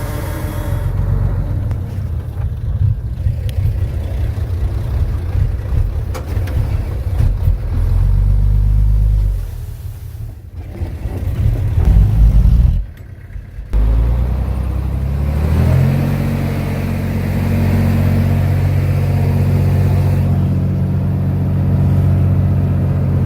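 Heavy diesel engine of earthmoving equipment running under load with a deep rumble, broken off sharply about thirteen seconds in, then a steady low engine drone.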